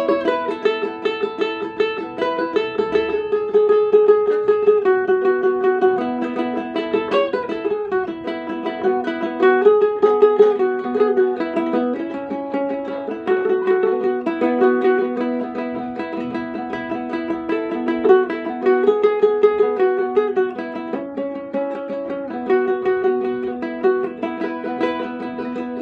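Instrumental music played on a plucked string instrument: a melody of picked notes over steady lower notes.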